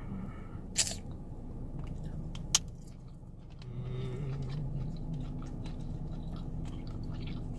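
Close-up chewing of someone eating lobster: many small mouth clicks, with two sharper clicks about one second and two and a half seconds in, over a low steady hum.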